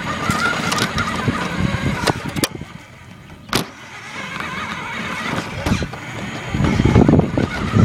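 Radio-controlled car running, heard from a recorder taped to the car: a wavering motor whine with rattling and knocks, a short lull about two and a half seconds in, and a loud low rumble near the end.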